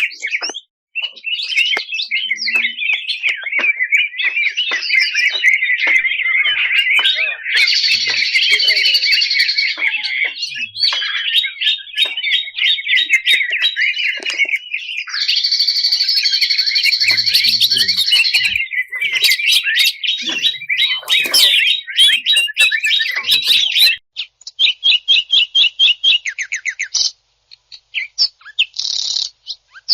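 Cucak ijo (green leafbird) singing a loud, fast, varied song of trills and harsh chattering notes, with high buzzy phrases about a quarter of the way in and again past halfway. About four-fifths of the way in, the song changes to short, rapid rattling bursts with brief pauses between them.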